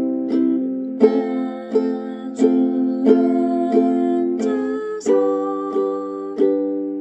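Ukulele playing chords with a regular strum, a stroke about every 0.7 seconds; the chord changes about a second in and again at about five seconds.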